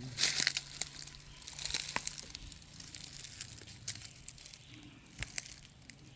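Faint rustling and crackling with scattered light clicks over a low steady hum.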